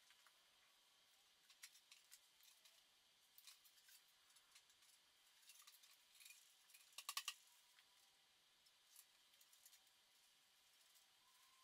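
Near silence with faint scattered clicks and small handling noises, and a quick run of sharper clicks about seven seconds in.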